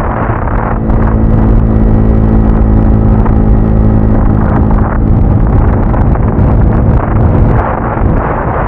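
Motorcycle engine running on the road, its note steady, under heavy wind noise on the microphone. The engine comes up louder about a second in and eases back near the end, leaving mostly wind.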